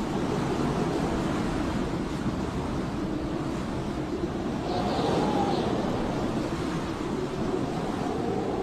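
Blizzard wind howling in a steady rush, swelling into a higher whistling gust about five seconds in.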